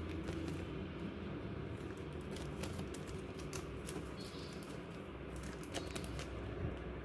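Light taps, clicks and rustles of small stationery items being handled, scattered irregularly over a steady low background hum.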